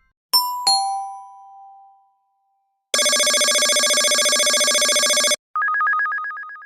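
Sound-effect clips in a row: a two-note falling ding-dong chime. Then a loud, steady electronic ring lasting about two and a half seconds, which cuts off suddenly. Then a rapid warbling two-tone telephone-style ring that fades away.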